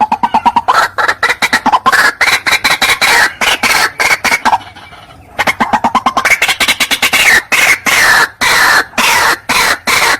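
White-breasted waterhen (ruak-ruak) calling: a rapid run of harsh, clucking notes several a second. The calls break off briefly about halfway through, then start again.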